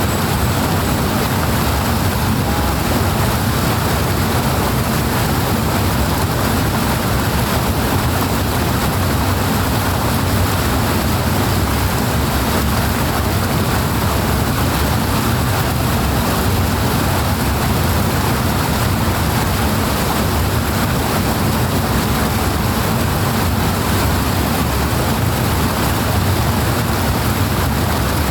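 Steady rushing water, a constant full noise with no break or change.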